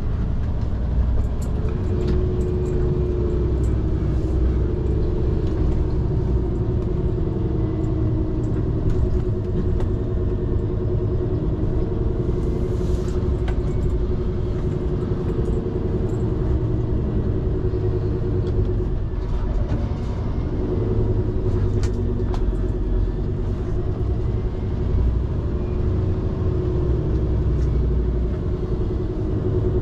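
Scania P360 XT truck's diesel engine running steadily under way, with low tyre and road rumble.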